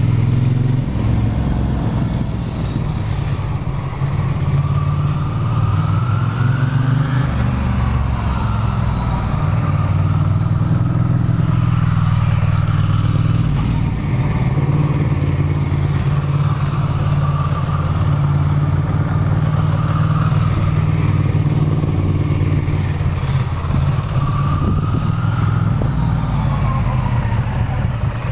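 Ducati ST3's L-twin engine breathing through a Termignoni slip-on exhaust, running continuously while the bike is ridden, its note shifting up and down a few times with throttle and gear changes.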